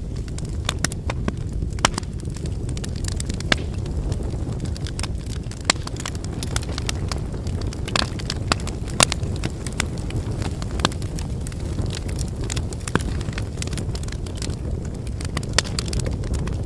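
Wood fire burning: a steady low flame noise with frequent irregular crackles and pops from the burning logs, a few of them sharper and louder.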